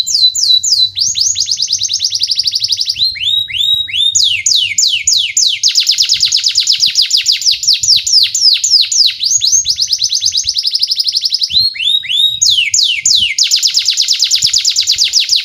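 Domestic canary singing a long, continuous song of rapid trills: quick repeated down-slurred notes, the rolls changing speed and pitch every second or two.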